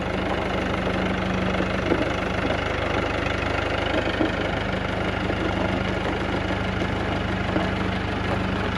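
Tractor engine running steadily, a continuous drone with a held low tone.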